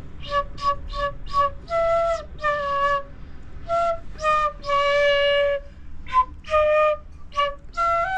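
A small flute being played: a short tune that opens with four quick repeated notes, then moves on to longer held notes and a few short ones.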